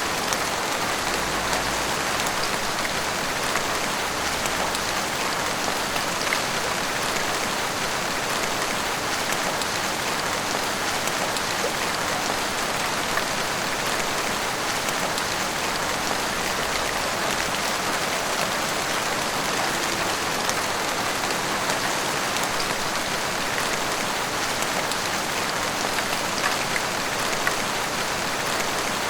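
Heavy rain pouring steadily, an even hiss with scattered drops ticking on hard surfaces.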